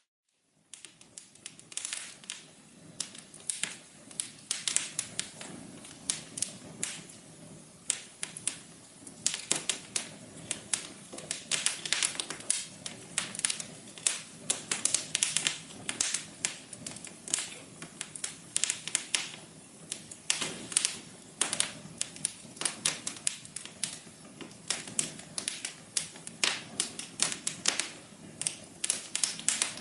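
Wood fire crackling in a fireplace: dense, irregular sharp pops and snaps over a soft low rush of burning. It comes in after a brief moment of silence at the very start.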